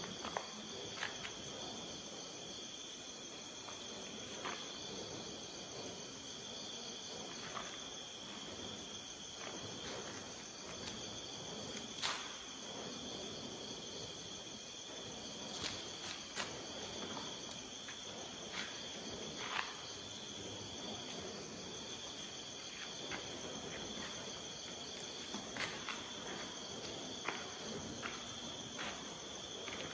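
Crickets chirring steadily in a constant high trill, with a few faint clicks and taps scattered through.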